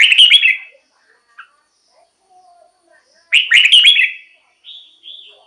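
Red-whiskered bulbul singing: two short, loud phrases of quick warbled notes about three seconds apart, the second followed by a couple of softer notes near the end.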